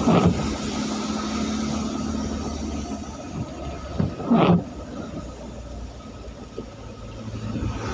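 Road traffic on a rain-wet road: a steady hiss of rain and tyres with a low engine hum, and two louder passes, one at the very start and one about four and a half seconds in.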